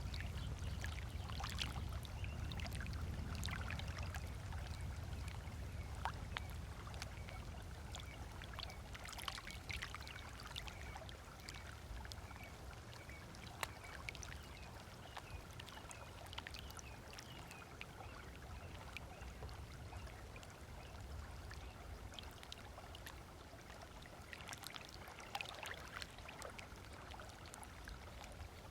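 Small waves lapping and splashing at the shoreline, with birds chirping on and off. A low rumble at the start fades away over the first ten seconds or so.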